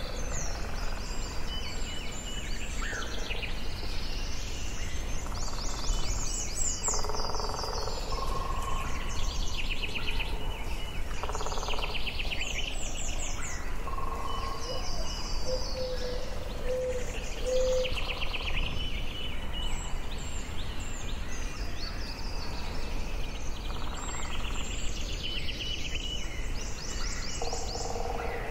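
Forest birdsong: several songbirds singing overlapping short phrases and rapid trills. A string of lower, evenly spaced notes comes in about halfway through. All of it sits over a steady low rumble of background noise.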